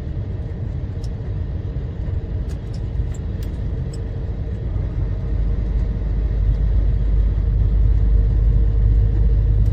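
Truck engine and road noise heard inside the cab while driving: a steady low drone that grows a little louder in the second half.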